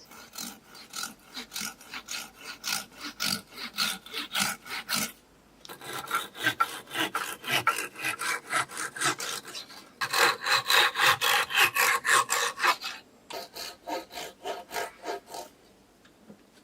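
Wood being sawn by hand: quick back-and-forth strokes, about three to four a second, in four bouts with brief pauses between them.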